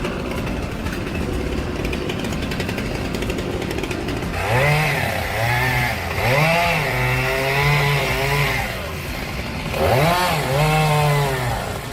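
A chainsaw running, revved hard from about four seconds in. Its pitch rises and falls and holds at full throttle, drops briefly, then revs up again.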